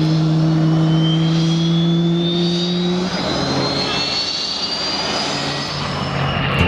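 Airplane engine running, with a high whine that slowly rises in pitch; a steady low hum under it cuts off about three seconds in.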